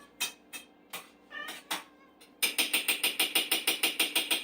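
A hungry house cat meows once amid a few scattered sharp clicks. About two and a half seconds in, a fast, even mechanical clicking starts, around seven clicks a second.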